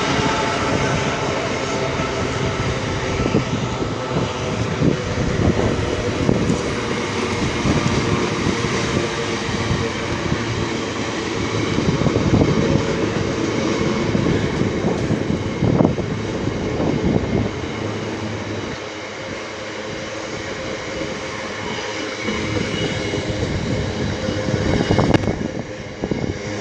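Class 66 diesel-electric freight locomotive, with its two-stroke V12 diesel engine, running steadily as the train passes, with a steady engine drone and repeated clicking of wheels over rail joints. The engine's note falls slightly at the start.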